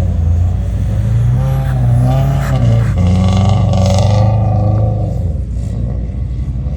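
Subaru WRX flat-four engine revving hard twice. The pitch climbs, drops briefly, climbs again, then eases off.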